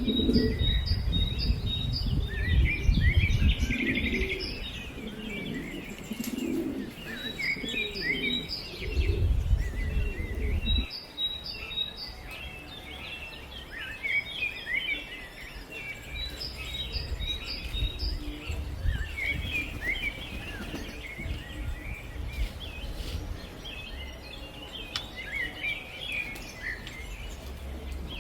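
Songbirds chirping and singing, many short high calls overlapping throughout, with a low rumble in the first four seconds and again from about nine to eleven seconds in.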